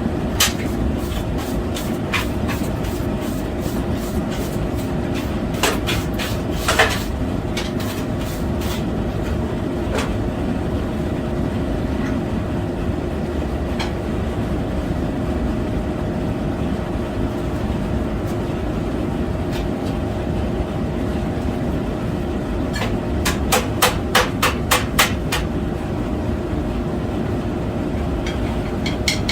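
Blacksmith's hammer striking steel on an anvil in quick runs of light blows: a few just after the start, more from about six to nine seconds in, and a run of about four blows a second from around 23 to 25 seconds in. A steady mechanical hum lies under it throughout.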